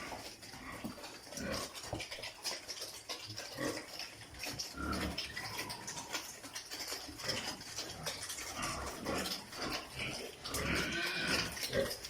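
Pigs grunting, with many scattered clicks and knocks, and a louder stretch of calls shortly before the end.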